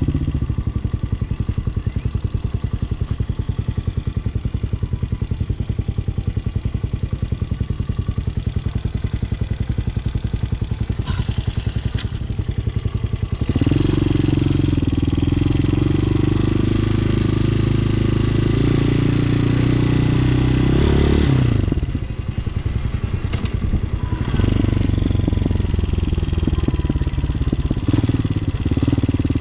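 Motorcycle engine idling with a steady low pulse. About 14 seconds in it runs louder under throttle for about eight seconds, drops back sharply, then runs louder again near the end.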